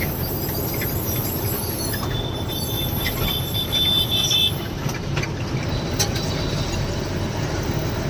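Lorry's diesel engine and road noise, a steady low rumble heard inside the cab while driving, with a few light clicks and a brief high whine from about three seconds in.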